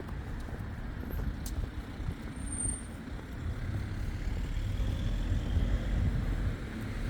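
Street traffic: a motor vehicle passing, its low rumble building from about four seconds in.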